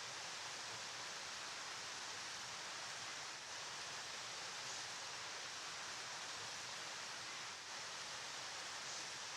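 Steady rushing of a flowing river: an even, unbroken hiss with no distinct events.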